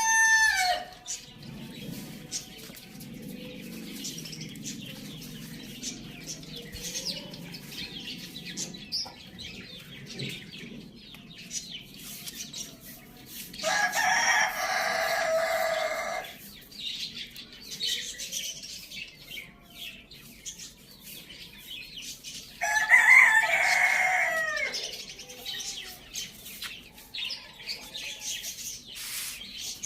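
Rooster crowing twice, each crow lasting two to three seconds, once about halfway through and again near the end, with faint chirps and clucks in between.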